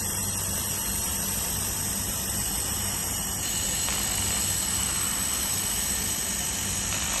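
Steady hum and hiss of a handheld fiber laser welding machine at work, welding thin metal without wire feed; the hiss grows a little louder and brighter about four seconds in.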